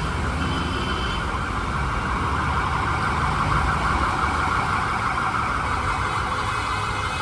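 Street traffic: vehicle engines running under a steady high-pitched sound that could be a distant siren.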